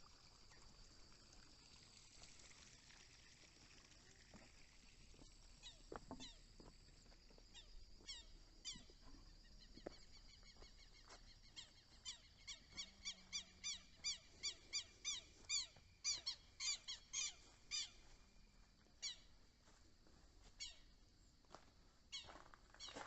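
A bird calling in a rapid series of short, sharp, high notes, about four to five a second, building up midway and breaking off a few seconds before the end, over a faint steady high drone of crickets.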